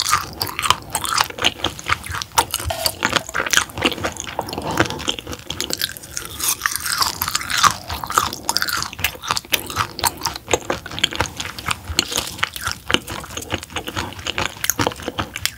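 Close-miked chewing of raw roughscale sole sashimi: a steady run of wet, crunchy clicks and squelches from the mouth.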